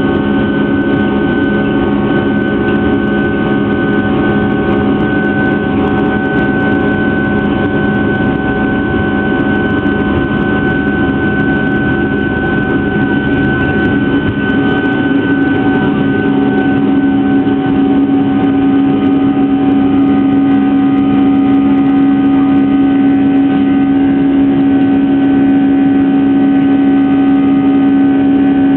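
Boeing 757 jet engines at takeoff thrust, heard inside the passenger cabin: a loud, steady engine noise carrying several steady tones, growing a little louder about halfway through.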